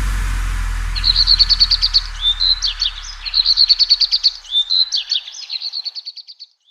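A songbird singing in quick trills of high, rapidly repeated chirps, beginning about a second in and going on in several phrases. Under it a low rumble left over from the preceding music fades away.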